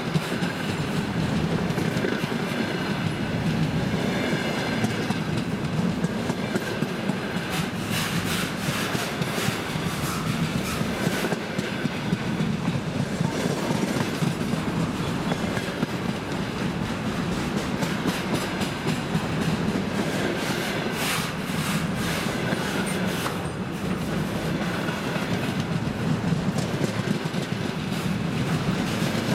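Container freight wagons rolling past close by at speed: a steady wheel-on-rail rumble with frequent sharp clickety-clack as the wheelsets cross rail joints, at times coming in denser clusters.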